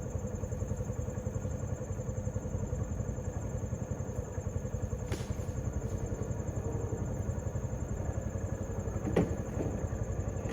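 A vehicle engine running steadily, with a sharp clank about nine seconds in.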